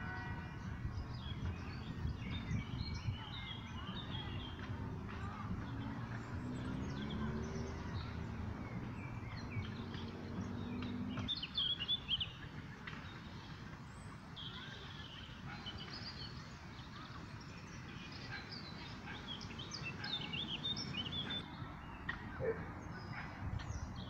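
Small birds singing and chirping, with short trills and calls scattered throughout, over a low background rumble that eases about eleven seconds in.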